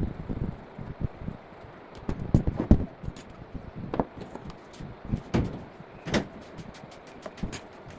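Wood being worked and handled by hand: irregular wooden knocks and scrapes with a few sharp clicks, the heaviest knocks coming two to three seconds in.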